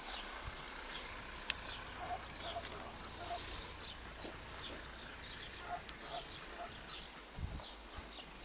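Birds calling with many short high chirps, and two brief runs of three or four lower calls; a single sharp click about a second and a half in.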